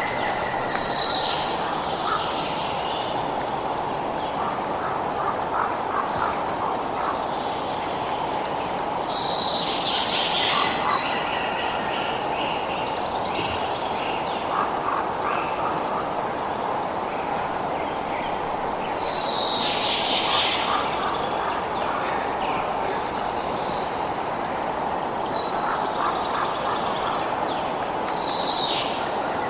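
Birds calling over a steady background hiss, one loud falling call coming back about every nine or ten seconds, with fainter chirps between.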